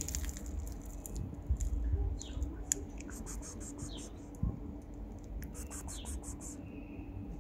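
A bird chirps briefly a couple of times, each a short falling call. There are two quick runs of dry clicking, one about three seconds in and a longer one about five and a half seconds in, over a steady low outdoor rumble.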